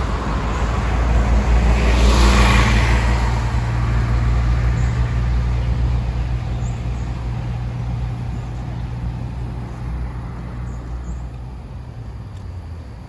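A large vehicle passing with a low rumble; it is loudest about two seconds in, then slowly fades away.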